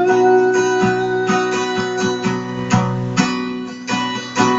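Acoustic guitar strummed in a steady rhythm, with a sung note held over it for the first couple of seconds.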